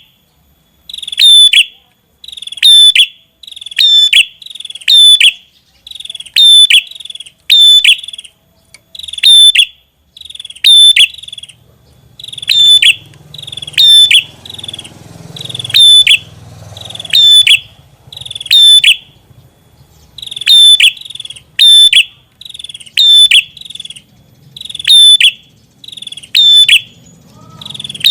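Red-headed prenjak (prenjak kepala merah) singing non-stop: a loud, sharp, high call repeated over and over, about one call a second.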